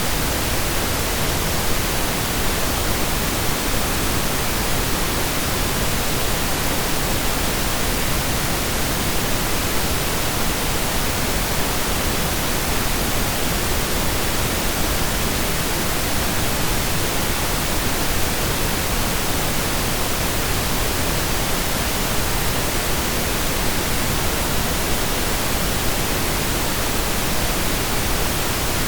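Steady synthesised pink noise: an even hiss with equal energy per octave, unchanging throughout.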